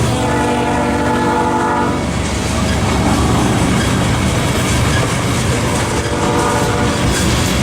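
Diesel locomotive horn sounding: one long blast of about two seconds, then a shorter blast near the end, over the steady rumble of the train on the rails.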